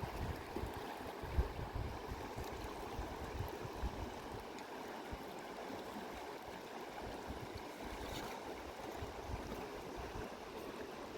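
Mountain river water rushing steadily, with a few low gusts of wind buffeting the microphone in the first second or two.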